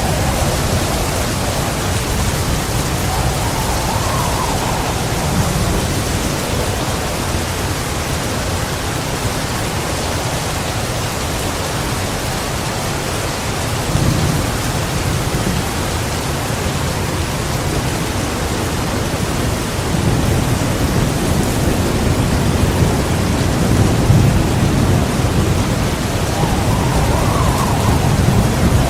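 Heavy rain falling steadily, with low rolling thunder that swells about halfway through and again in the last third, loudest a little after two-thirds of the way.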